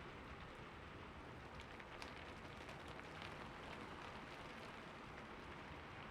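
Soft, steady rain falling, a constant hiss with scattered drop ticks.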